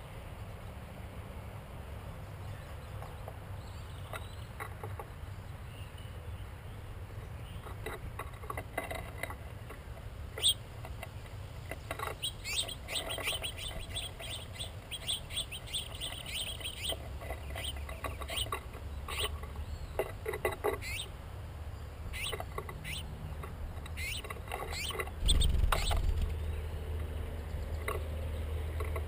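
Small birds at a seed feeder giving quick, high chirps, mixed with sharp clicks and taps, over a low steady rumble. A single louder thump comes near the end.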